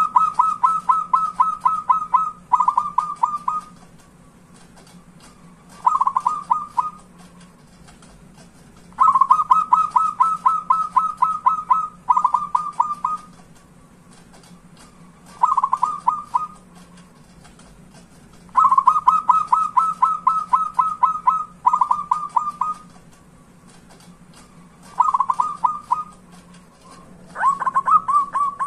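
Zebra dove (perkutut) singing its staccato cooing song: runs of rapid, evenly spaced coos at a steady pitch, recurring every few seconds. A long run followed by a short one alternates with a single short run. A faint steady hum lies underneath.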